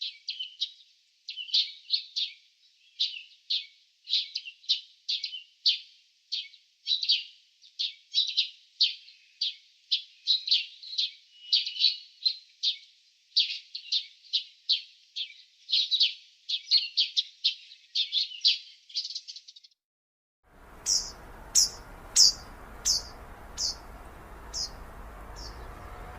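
Small birds chirping in fast, repeated clusters of short notes, over a dead-quiet background. About 20 seconds in, this switches abruptly to a different recording with a steady background hiss, where a bird gives a series of about eight high, clear notes, slowing down as the series goes on.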